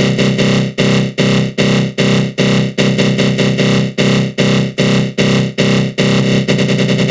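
Synthesized growl sound effect from a GMS synth with a flanger on it. It pulses about two and a half times a second, then near the end turns into a faster, unbroken stutter.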